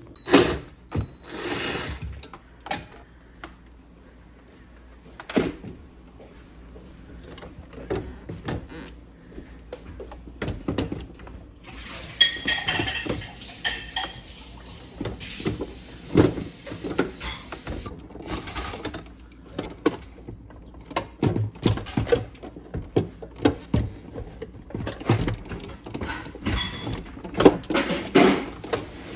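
Repeated clicks, knocks and clattering of tools and plastic and metal parts being handled while a refrigerator is worked on, with a hissing rustle for several seconds starting about twelve seconds in.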